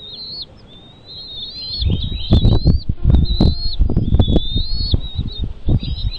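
A bird calling in a run of high, thin chirping notes, over and over. From about two seconds in, loud, irregular low thumps come in under the calls.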